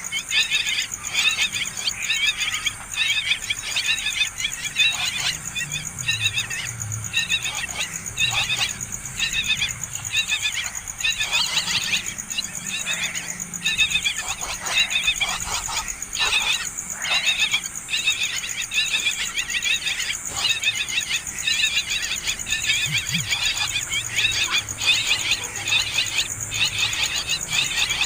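Nestling birds begging for food: a continuous, rapid chorus of high-pitched chattering calls with only brief breaks.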